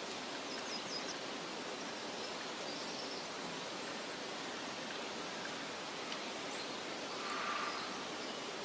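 Soft wind in a meadow, a steady rustling hiss, with a few short high bird chirps about half a second in and another brief call near the end.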